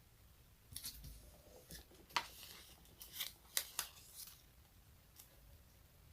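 Close-miked ASMR sticky sounds: a tacky surface being pulled apart in a quick run of sharp crackles and clicks. The run lasts about three and a half seconds, and a single click follows about a second later.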